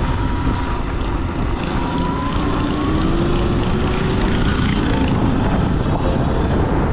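Sur-Ron electric dirt bike underway, wind rushing over the microphone, with the motor's faint whine rising in pitch about two to four seconds in as the bike speeds up.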